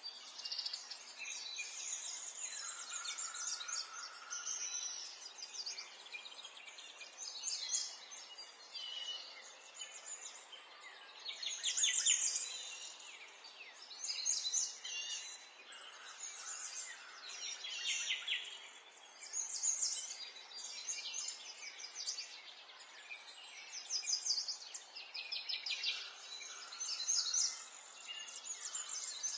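A chorus of several birds singing and chirping, with quick trilled phrases coming every few seconds, the loudest about twelve seconds in.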